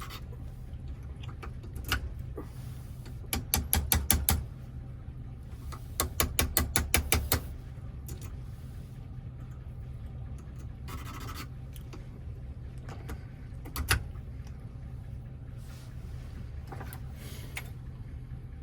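Two quick runs of sharp metal clicks, about six a second, a few seconds in and again around six to seven seconds, with single clicks before and later, over a steady low hum. These are hand work on a Toyota door lock cylinder's wafers, some of which are sticking up slightly.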